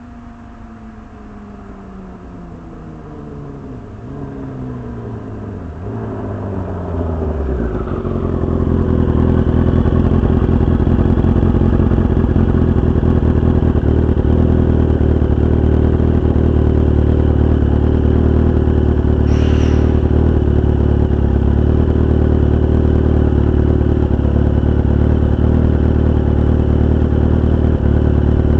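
Kawasaki 750 motorcycle engine, its note falling in pitch as it grows louder over the first eight seconds, then running loud and steady at a constant speed. A brief high squeak about 19 seconds in.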